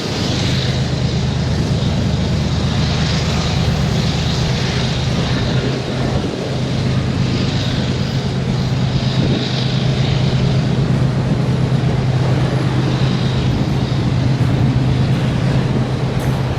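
Diesel freight locomotives running with a loud, steady low engine drone and a rushing noise over it.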